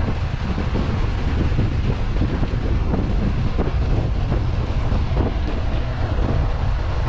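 Suzuki Jimny driving on the road, a steady low rumble of engine and road noise with wind buffeting the microphone.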